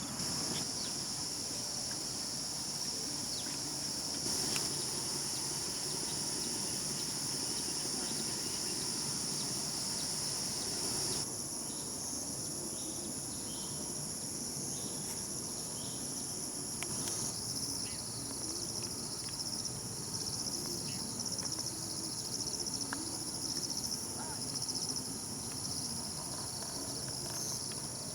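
Steady high-pitched insect chorus, trilling without a break. The background shifts slightly about eleven seconds in, with faint scattered clicks and rustles underneath.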